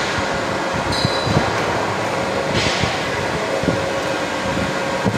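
Steady mechanical rumble of running machinery, with a faint steady hum and irregular low knocks.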